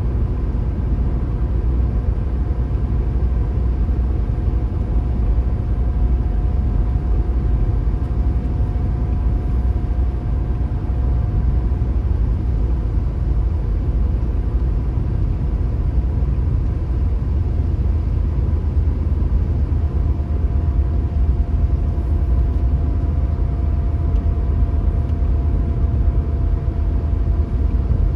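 Car driving at a steady speed: a continuous low rumble of the engine and tyres on the road, with a faint steady whine above it that shifts slightly in pitch about two-thirds of the way through.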